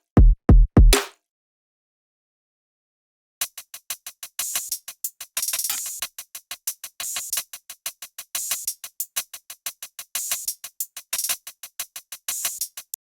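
Electronic drum samples played back from Maschine 2 software: a few deep kick-drum hits, a gap of dead silence, then about three seconds in a fast drum loop of crisp, bright, hi-hat-like hits, about five a second, starts up.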